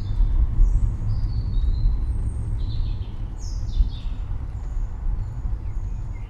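Several wild birds chirping and calling, with short high notes and a few quick falling calls in the middle, over a steady low rumble.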